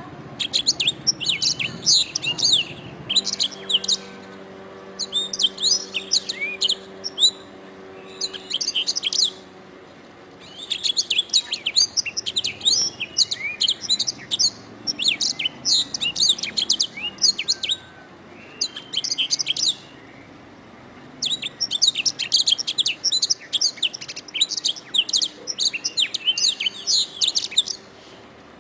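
Domestic canary singing: long, rapid trilled phrases, each a few seconds long, broken by short pauses, with the longest run lasting about seven seconds.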